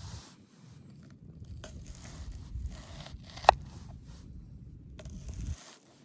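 Scraping and rustling of hands preparing food and handling gear for camp cooking, with one sharp click about three and a half seconds in, over a low rumble that cuts off shortly before the end.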